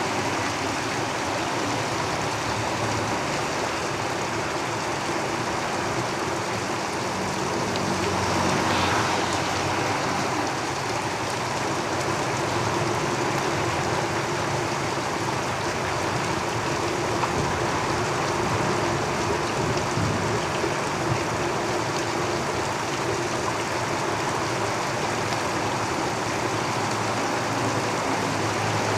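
Heavy rain falling steadily on a tin roof, a dense even hiss, with road traffic rumbling underneath. The sound swells slightly about nine seconds in.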